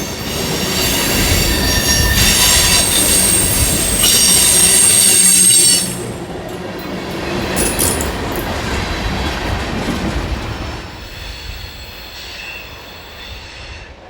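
Freight train rolling past with its wheels squealing against the rails in several high, steady tones. The squeal stops about six seconds in and the rumble of the cars fades away after that.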